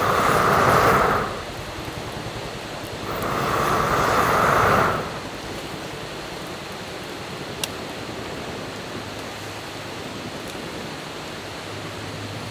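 Someone blowing hard on a fire that has gone out, to revive it: two breathy gusts of about two seconds each, a few seconds apart, over a steady background rush.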